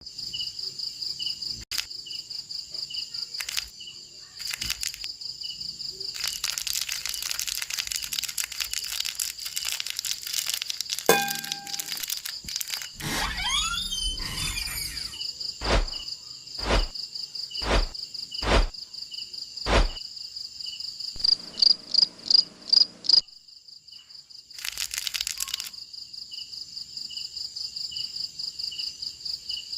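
Steady, shrill insect chorus: a continuous high trill with a lower chirp repeating about twice a second beneath it. It is interrupted by a stretch of crackling noise about a quarter of the way in, five dull thumps about a second apart near the middle, and a quick run of loud clicking pulses a little later.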